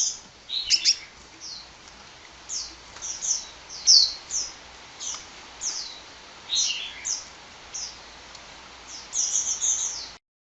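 A sunbird singing: a rapid run of short, high, downward-sweeping chirps, some in quick clusters. It stops abruptly near the end.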